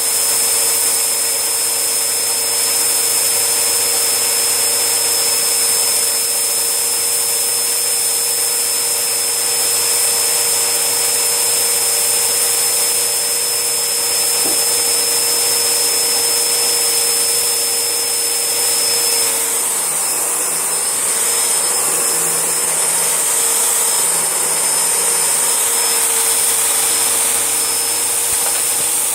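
Panasonic MC-E4103 bagless cylinder vacuum cleaner running, a loud steady whine that shifts slightly about twenty seconds in.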